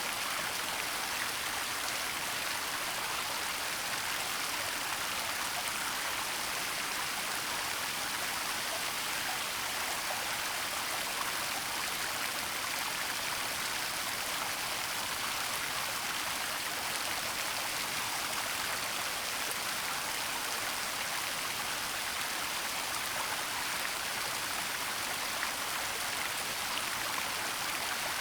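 Waterfall rushing in a steady hiss of falling water, even and unchanging, with most of its sound in the higher pitches.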